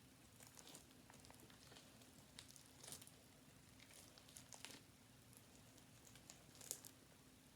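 Faint, scattered sticky clicks and crackles of slime being handled, with a few sharper pops.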